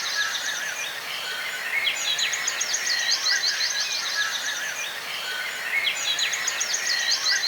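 Songbird song: phrases of rapid, high, repeated notes recurring about every four seconds, with softer twittering between them, over a steady background hiss.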